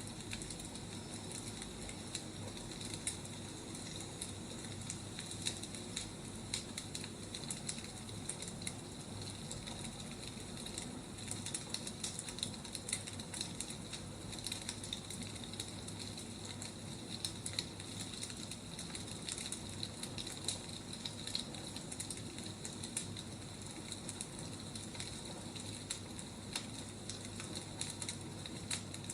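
Wood fire burning, crackling and popping with irregular sharp snaps over a steady hiss of the flames.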